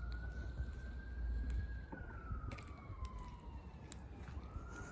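Emergency-vehicle siren wailing: a slow rise and fall in pitch, starting a new rise near the end, over a low rumble.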